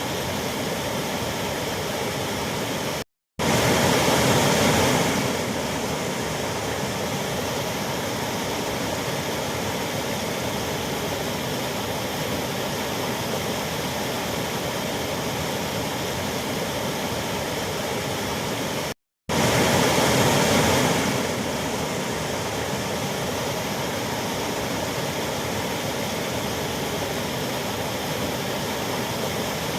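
Waterfall rushing steadily. It cuts out twice for a split second, and each time it comes back louder for a couple of seconds before settling.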